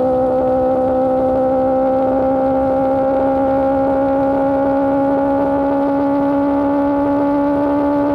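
Motorcycle engine with an Austin Racing GP1R aftermarket exhaust, holding a steady high-revving note whose pitch climbs slowly.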